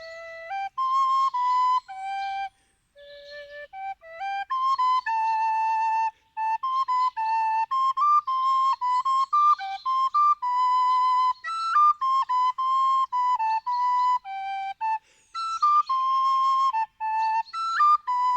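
Music: a solo wind instrument plays a melody in held notes that step up and down in pitch, with brief gaps between phrases.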